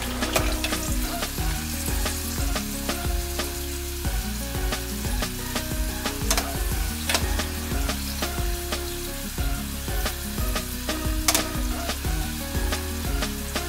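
Pork belly pieces deep-frying in hot oil in a stainless steel saucepan: a steady sizzle full of crackles and sharp pops, as metal tongs stir and turn the meat.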